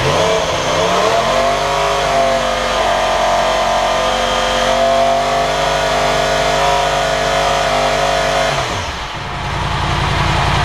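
Yamaha R1M's crossplane inline-four, warm and on its stock exhaust, revved up and held at steady high revs for about seven seconds, then dropping back to idle near the end. At the held revs it reads about 92 decibels on a nearby meter.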